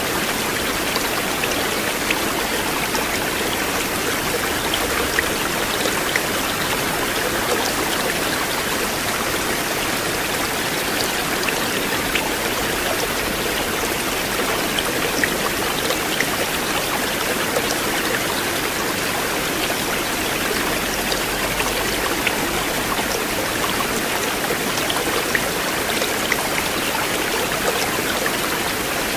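River water flowing steadily: a constant rush of water with small splashes and drips scattered through it.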